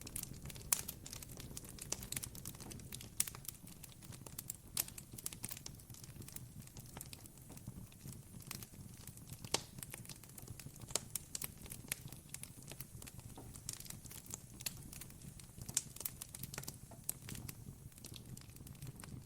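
Campfire crackling, with irregular sharp pops and snaps several times a second over a low, steady rumble.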